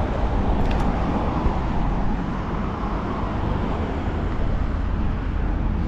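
Road traffic going by: the steady noise of passing cars, with one car swelling past about two seconds in.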